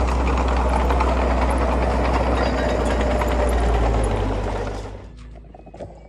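Heavy diesel engine of construction machinery running steadily with a deep hum and clatter. It drops away between about four and five seconds in, leaving faint clicks.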